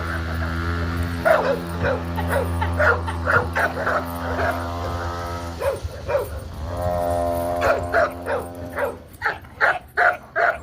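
Puppies yipping and barking over and over, with a few whimpers, over background music with a steady bass; the yips come out most clearly near the end.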